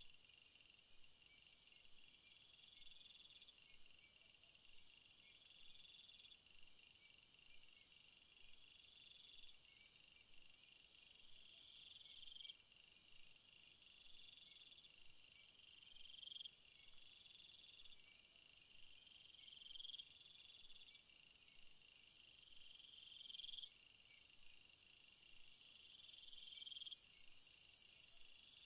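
Faint birdsong with chirping: a short call that swells, repeated about every two seconds, over higher trills and evenly spaced chirps.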